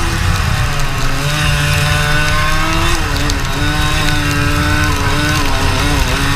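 Racing kart engine running hard at speed, its pitch dipping briefly about three seconds in and again near the end as the kart slows for corners and picks up again, over a steady rumble.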